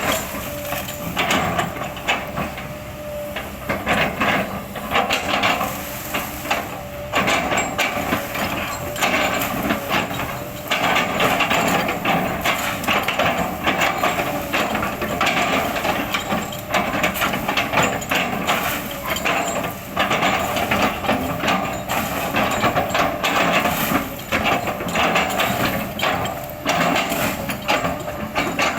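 Kobelco excavator working, its engine running under load while the bucket chops and crushes oil palm trunks, with many irregular knocks and splintering of wood.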